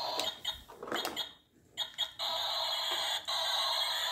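Toy garbage truck's electronic sound effects playing from its small built-in speaker after its button is pressed, breaking off briefly about a second and a half in and then starting again.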